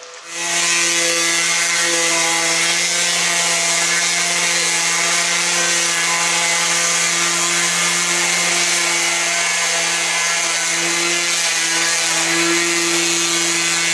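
Electric rotary power polisher switched on and running at a steady speed, a constant motor whine, buffing a boat's hull.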